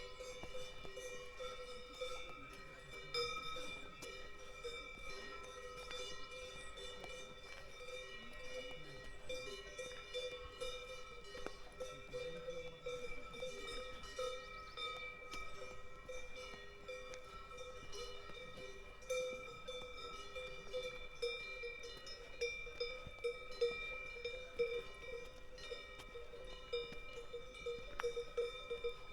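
Several cowbells on grazing cows ringing together, a steady overlapping jangle of bell tones with frequent small clanks, which grow busier in the last several seconds.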